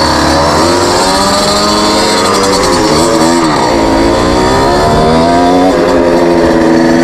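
Moped engine running and being revved, its pitch rising and falling: it dips about three seconds in, then holds high. The moped has just been stalling at idle.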